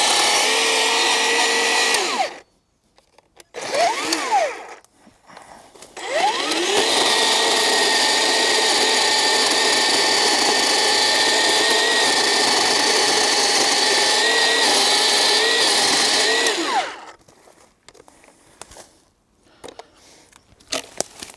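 Black & Decker 36 V cordless electric chainsaw running with a steady whine, its chain cutting into a log. It stops a couple of seconds in and is blipped briefly. It then spins up again at about six seconds, runs for about ten seconds, and winds down near the end.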